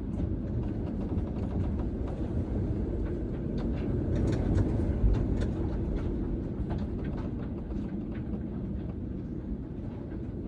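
Storm wind and sea around a sailing yacht: a heavy, steady rumble with scattered sharp ticks, swelling to its loudest about halfway through.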